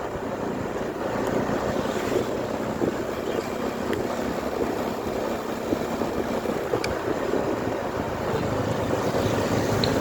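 Wind rushing over the camera microphone of a moving motorcycle, with the motorcycle's engine and road noise as a steady drone beneath, and a couple of faint clicks.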